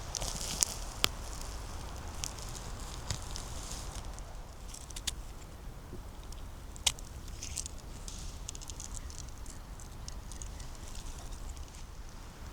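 Dry twigs and leaf litter on a forest floor crackling and snapping under movement, in irregular scattered clicks with one sharp snap about seven seconds in.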